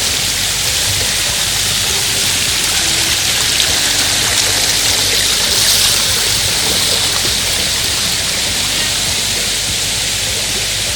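Steady rush of water from small waterfalls and cascades on a mountain brook, swelling briefly about six seconds in.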